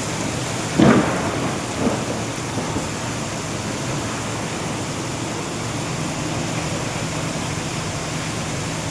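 Heavy rain falling steadily, with a short loud bang about a second in and a weaker one a second later.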